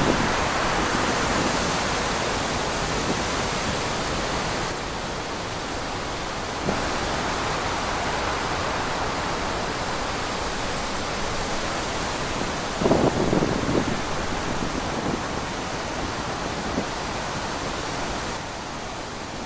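Wind blowing: a steady rush of noise, with a brief stronger gust buffeting about two-thirds of the way through.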